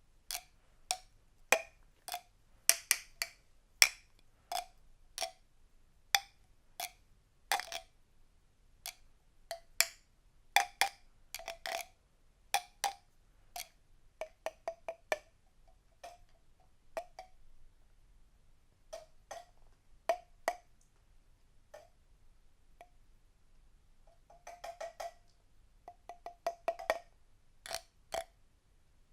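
An uneven series of sharp taps or knocks on a hard, resonant object, like a wood block, each with a brief ringing tone, coming in quick runs near the end.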